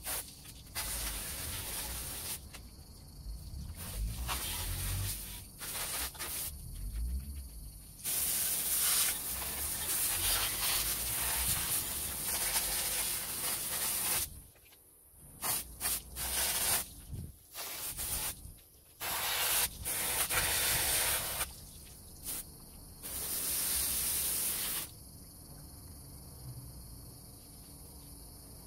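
Aerosol spray can sprayed in repeated bursts of hiss, some under a second and the longest several seconds, each stopping abruptly.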